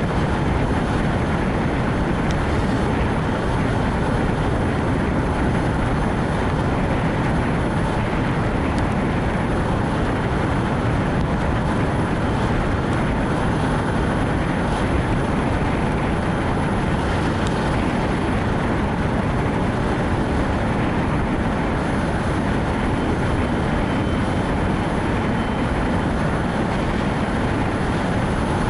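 Steady road noise of a Nissan Note e-POWER driving in heavy rain: tyres hissing on the wet road, with rain and wind noise, even and unbroken throughout.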